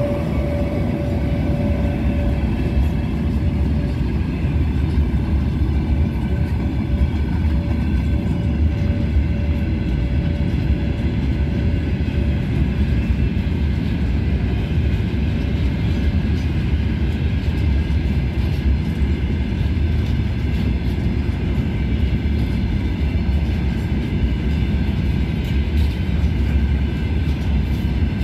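Loaded iron ore pellet wagons rolling past at close range: a steady, loud rumble of wheels on rail. A thin whine fades away over the first half.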